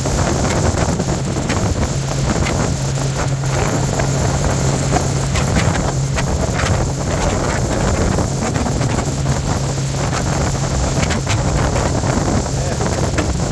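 Bayliner motorboat running steadily under way: a constant engine hum under a thick rush of wind buffeting the microphone.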